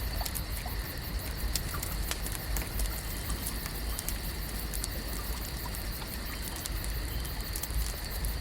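Lakeside ambience: a steady wash of water-like noise over a low rumble, dotted with scattered small clicks and ticks, and a faint steady high tone held under it.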